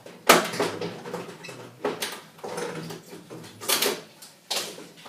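Plastic detergent drawer and its hose fitting being worked loose with pliers: a few sharp clicks and knocks, about four, with handling rattles between them.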